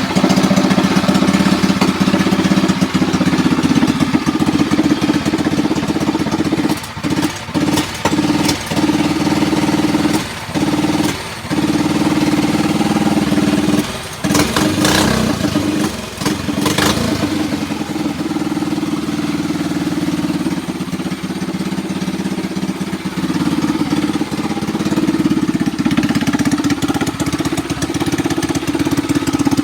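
Mini bike's Predator 212 single-cylinder four-stroke engine, fitted with a Mikuni carburettor and RLV exhaust, running steadily, with the throttle briefly let off several times near the middle.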